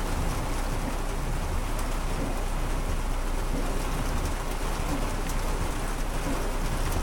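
Heavy rain pouring steadily onto a car's roof and windshield, heard from inside the car.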